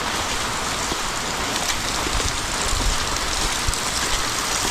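Steady rain from Hurricane Lala falling.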